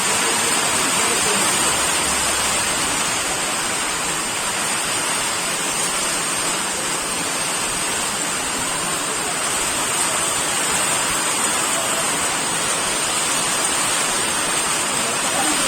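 Heavy rain pouring down, an even, unbroken hiss.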